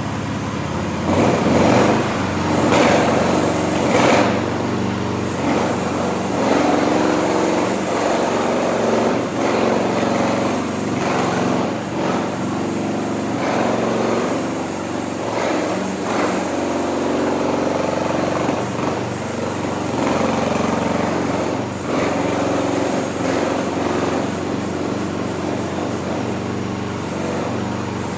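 Small engine of a New Future FT08 mini excavator running continuously. Its sound swells and shifts every few seconds, as under changing load.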